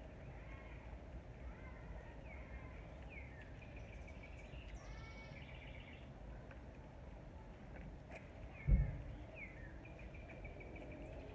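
Small songbirds chirping, with repeated short rising and falling calls over a low steady outdoor background noise. A single low thump about nine seconds in.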